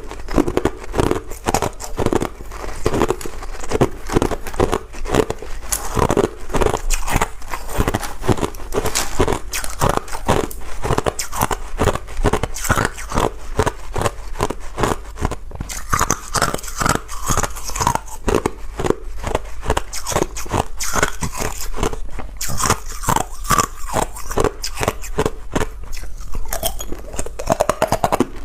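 A person biting and chewing ice: rapid, irregular crunching and cracking, many sharp cracks a second, with no let-up.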